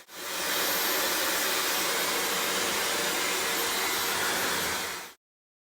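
Dyson Supersonic hair dryer running, a steady rush of blown air. It drops out for an instant at the start and cuts off abruptly about five seconds in.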